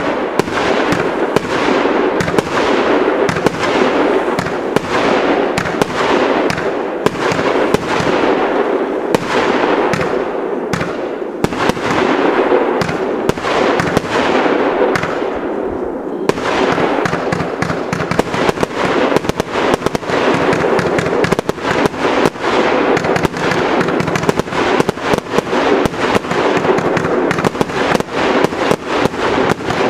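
A multi-shot fireworks cake firing a rapid, unbroken run of shots: a dense stream of launch thuds, pops and bangs as the stars burst overhead.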